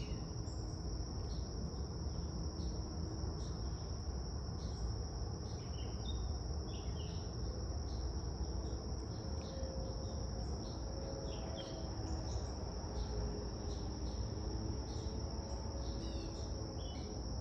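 Insects trilling in one steady high unbroken note, with birds giving short scattered chirps and a low steady background rumble underneath.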